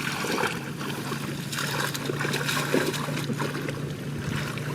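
Water splashing and sloshing in shallow muddy water, in irregular bursts, over a steady low hum.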